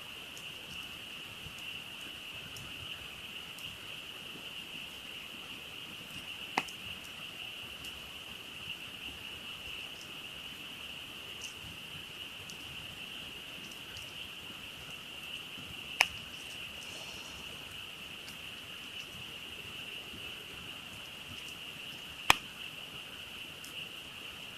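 A dense chorus of frogs calling steadily, with a campfire crackling beneath it and three sharp pops from the burning wood.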